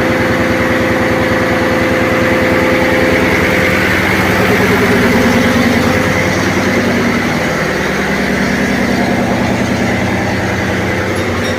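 Marine diesel machinery running steadily in a ship's engine room: a loud, constant engine drone with rapid even firing pulses and several fixed tones, shifting slightly in pitch around the middle.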